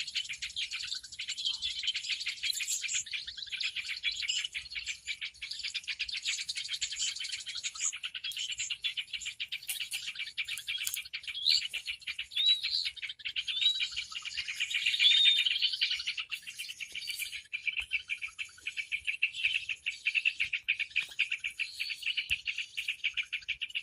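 A dense chorus of many small birds chirping and twittering rapidly at once, with a few short rising whistled notes standing out about halfway through: a bird-lure recording of a noisy mixed flock.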